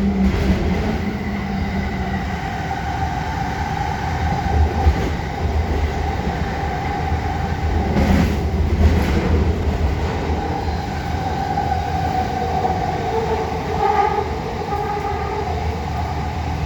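Passenger train running, heard from inside the car: a steady low rumble with a whine that wavers and bends in pitch.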